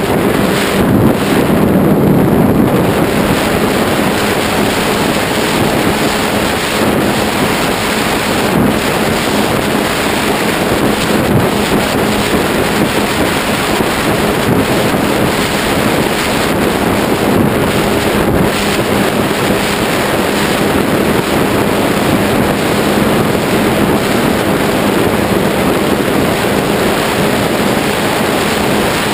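Heavy wind rushing over a GoPro camera on a Ritewing Zephyr II RC flying wing, with the steady hum of its electric motor and propeller underneath.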